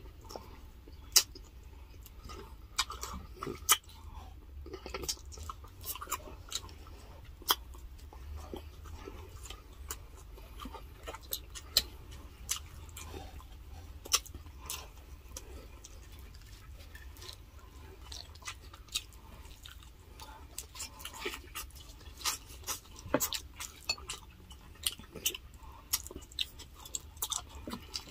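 Close-miked chewing of grilled chicken and rice eaten by hand, with frequent irregular sharp mouth clicks and smacks over a low steady hum.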